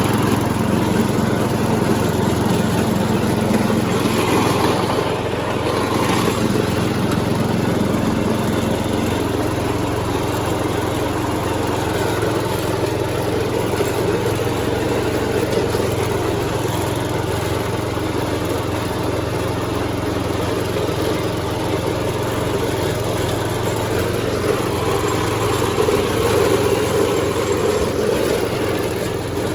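Lawn mower engine running steadily while mowing the lawns.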